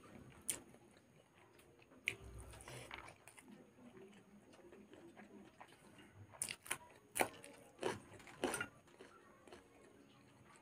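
Close mouth sounds of eating by hand: chewing rice and curry, with a few wet clicks. From about six and a half seconds in comes a run of sharp loud clicks and crunches as a raw chili is bitten and chewed.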